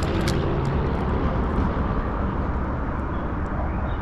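Steady, loud low rumble of outdoor background noise, with a couple of faint clicks near the start.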